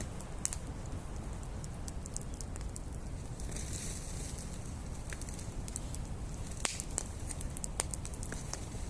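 Wood campfire crackling, with scattered sharp pops, the loudest about six and a half and eight seconds in, and a short hiss about three and a half seconds in, over a steady low rumble.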